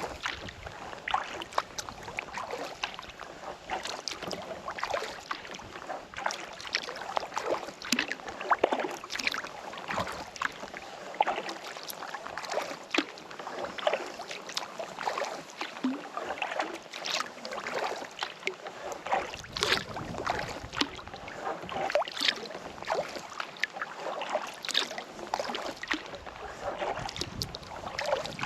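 Kayak paddle strokes in calm lake water: a steady run of small, irregular splashes and drips as the blades dip and lift.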